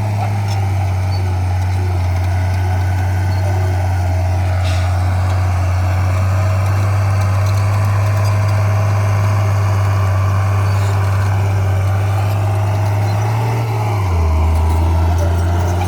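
Diesel engine of heavy earthmoving equipment running with a steady low drone. About 14 s in its pitch drops and it grows a little louder.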